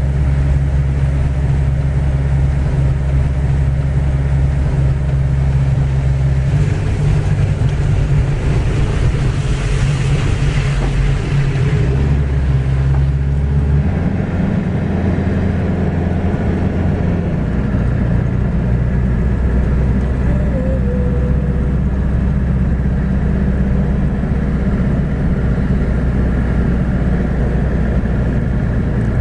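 Motor vehicle engine running steadily with a low rumble, its engine note shifting to a new level several times.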